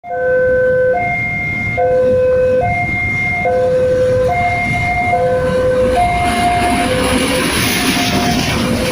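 A two-tone warning signal that alternates between a lower and a higher tone about every 0.8 s. From about six seconds in it gives way to the rising rush of a fuel tanker train passing at speed.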